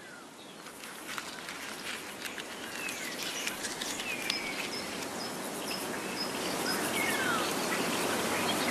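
Short, high bird chirps and a few falling whistles over a steady outdoor hiss with scattered small clicks, the whole slowly growing louder.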